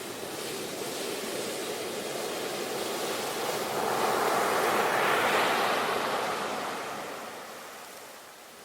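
Sea waves breaking on a shore: a wave swells up to a peak about halfway through and then washes back and fades near the end.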